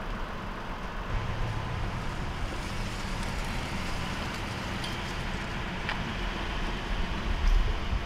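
Ford Police Interceptor Utility idling steadily, a low engine rumble, with a few stronger low bumps near the end.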